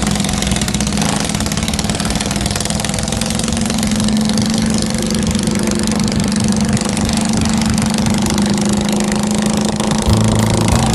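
Chopper motorcycle's Yamaha Scorpio single-cylinder four-stroke engine running steadily through a twin-port exhaust, holding an even pitch.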